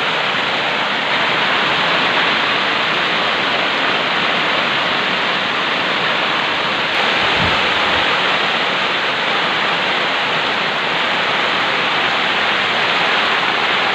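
Heavy rain pouring down steadily in a dense hiss, with a brief low thump about halfway through.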